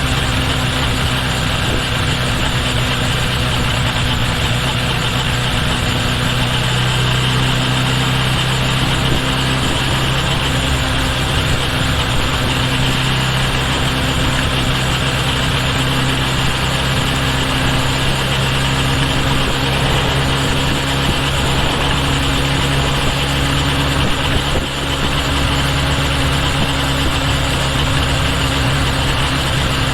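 Kawasaki Ninja H2 SX's supercharged inline-four running at a steady engine speed, an even engine hum over a constant rush of road and wind noise. The engine note firms up slightly a few seconds in, and the sound drops briefly near the end.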